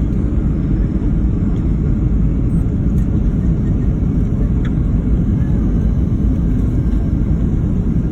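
Airliner cabin noise on final approach: a steady low rumble of engines and airflow heard from a passenger seat.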